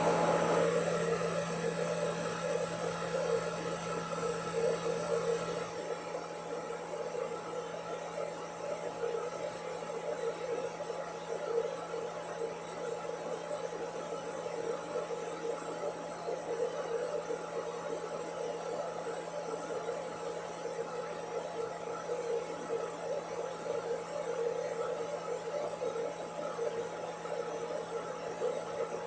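Steady electrical hum with a constant hiss, a lower layer of the hum stopping about six seconds in.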